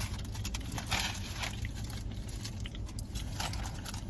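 Chewing and crunching on tortilla chips, irregular crackles over a steady low rumble.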